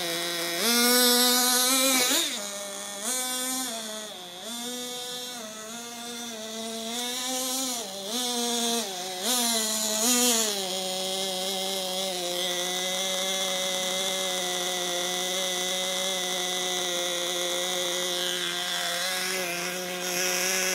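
Nitro RC buggy's small glow-fuel engine revving in repeated surges, its high buzzing pitch rising and falling over about the first ten seconds, then running at a steady pitch.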